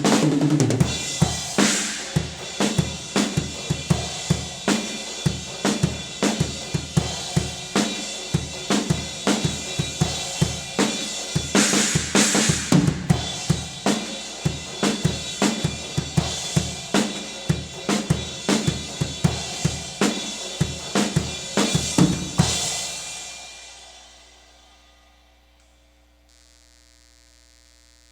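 Drum kit with Armada Shamman B10 cymbals and an 18-inch Wuhan Lion china cymbal, played in a steady groove of about two to three hits a second with several crashes on the china. The playing stops about 22 seconds in and the cymbals ring out, leaving a faint electrical hum.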